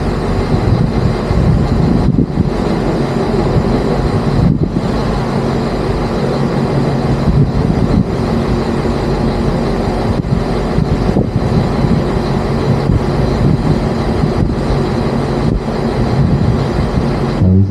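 Tour boat running under way: a steady engine drone under a continuous rushing noise.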